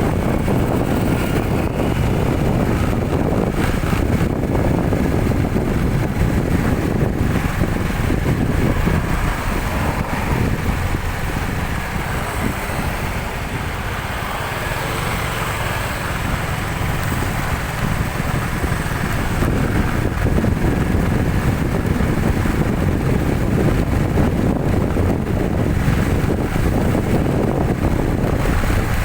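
Vehicle driving along: steady engine and road rumble with wind buffeting the microphone, easing off a little around the middle and building again later.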